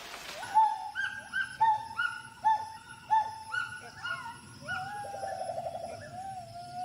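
Gibbon calling: a run of short hooting notes about twice a second, each rising sharply and then dropping away, followed by a longer drawn-out hoot that quavers near the end. These are the vocal displays gibbons use to ward off a rival or an intruder.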